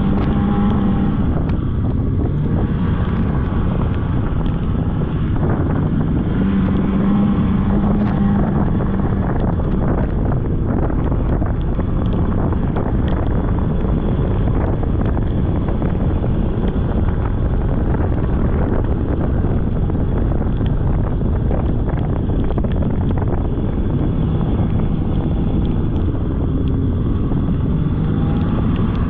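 Polaris snowmobile engine running steadily under way, its note shifting now and then with the throttle, with wind buffeting the microphone.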